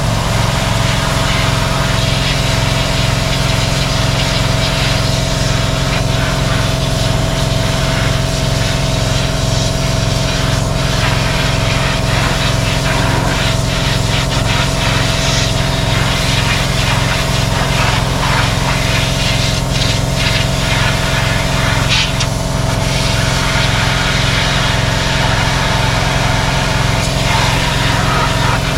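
Small petrol engine of a pressure washer running steadily at a constant speed, with irregular hissing from the water spray, mostly in the middle stretch.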